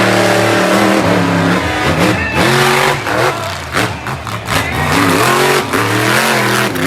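Monster truck engine revving hard, its pitch dropping and climbing back again several times as the throttle is worked.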